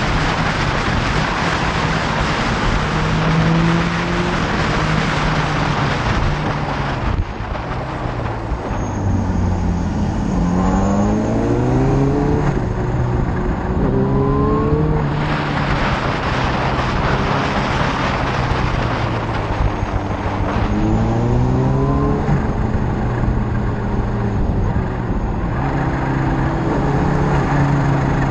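Motorcycle engine heard on-board under heavy wind rush, easing off about a quarter of the way in and then accelerating hard: its pitch climbs and drops back with each gear change, several times.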